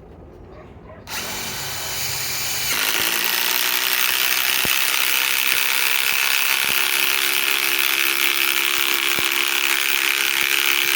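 Ryobi PSBIW25 compact impact wrench driving a 5/16 by 3 inch galvanized lag screw into wood. The motor starts about a second in; from about three seconds in it gets louder as the hammer mechanism impacts steadily under load. The screw splits the wood.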